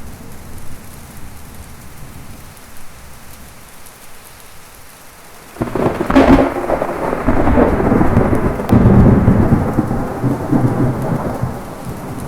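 Steady rain, then about halfway through a sudden thunderclap cracks in and rolls on as rumbling thunder, with a second loud crack a few seconds later before it slowly dies down.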